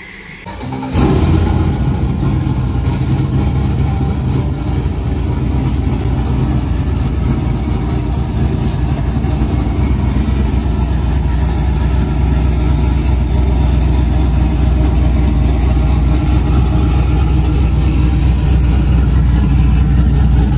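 A vehicle engine running with a deep, low note. It comes in suddenly about a second in, then holds steady and grows a little louder near the end.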